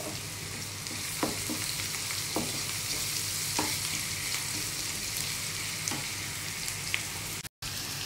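Sliced onions and ginger-garlic paste sizzling steadily in hot oil in a nonstick wok, stirred with a wooden spatula that ticks against the pan now and then. The sound cuts out briefly near the end.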